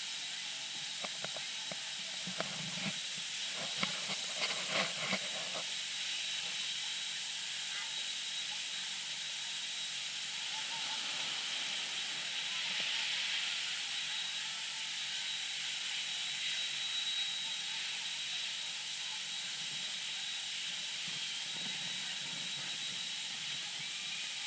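Steady, even hiss with a faint constant high-pitched tone running through it. Brief faint voices come in a few seconds in.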